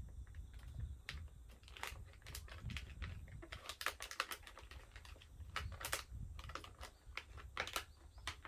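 Small wood fire crackling in a wood stove, with irregular sharp pops and clicks over a low rumble.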